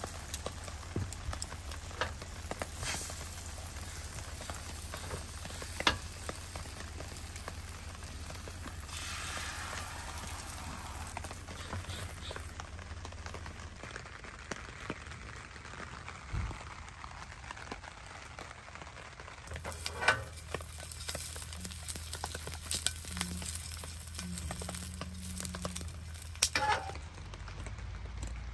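Egg-dipped bread sizzling as it fries in a small square pan on a portable gas camp stove, a steady hiss broken by a few sharp clinks.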